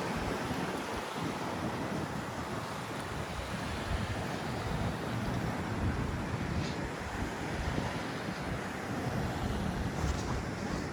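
Steady wash of city street noise, traffic rumble mixed with wind on the microphone, with a couple of faint ticks.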